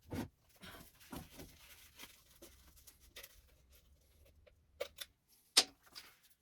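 Scattered handling noises: light knocks, clicks and rustling from parts and containers being moved, with one sharp click about five and a half seconds in.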